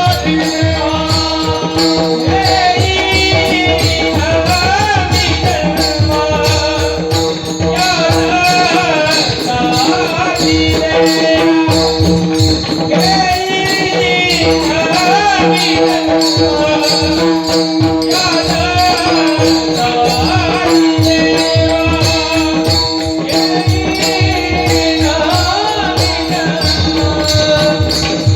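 Marathi devotional bhajan: a male voice singing long ornamented lines over a steady held accompanying note, with mridang drum strokes and jingling hand percussion keeping the beat.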